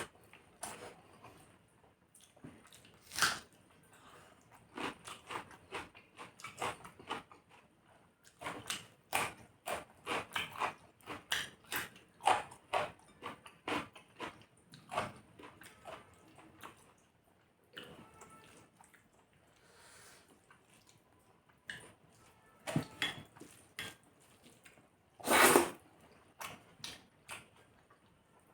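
Close-up eating sounds: a person chewing and smacking on rice and chicken curry, with irregular wet clicks. There are two louder short noises, about three seconds in and near the end.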